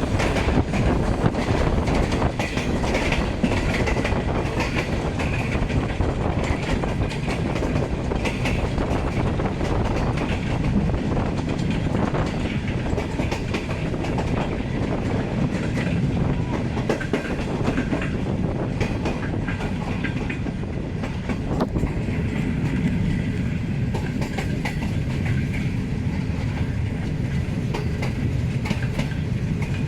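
Green Line Express passenger train rolling past, its wheels clacking steadily over the rail joints.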